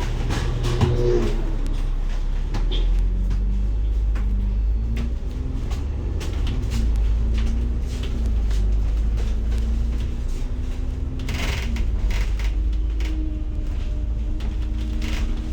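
Inside a moving bus: a steady low engine rumble with a drive whine that rises and falls in pitch, over frequent rattles and clicks from the cabin. A short hiss comes about three-quarters of the way through.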